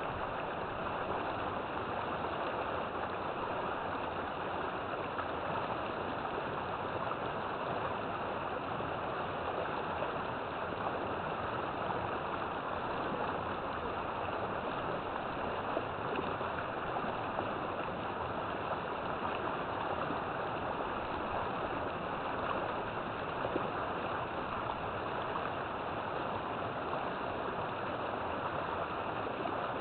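River water flowing steadily, a constant rushing and gurgling with no breaks.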